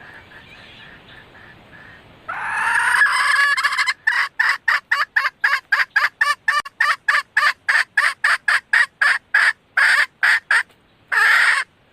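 Female red junglefowl calling, the hen's call that draws cocks and is used as a lure. A faint run of short notes leads into a loud drawn-out call about two seconds in. A quick series of short clucking notes follows at about four a second, then after a brief gap two longer notes near the end.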